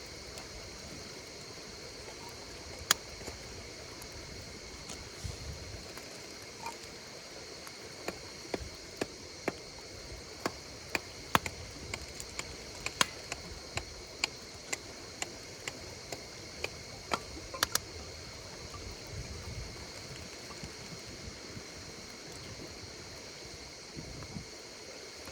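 Campfire crackling with sharp, scattered pops, most of them in the middle stretch, over a steady chorus of insects chirping.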